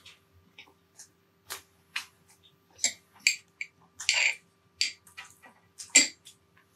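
Close-miked eating sounds: a person chewing with irregular wet mouth clicks and smacks, a few to the second, with a louder smack about six seconds in.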